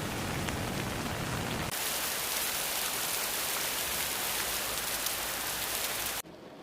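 Rain sound effect: a steady hiss of heavy rainfall. A little under two seconds in it turns brighter and thinner, and near the end it drops abruptly to a much quieter hiss.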